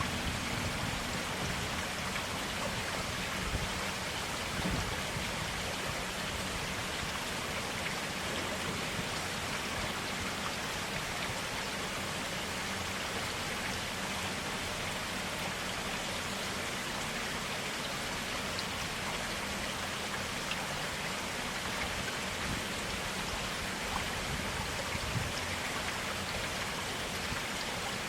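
Running water of a small stream, a steady even rush with scattered drops and splashes standing out now and then.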